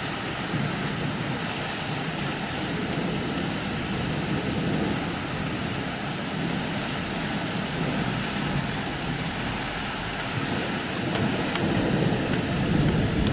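Steady rain falling during a thunderstorm, with scattered drop ticks; it grows louder near the end.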